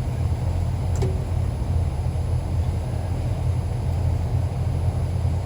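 Steady low rumble, with a single faint click about a second in.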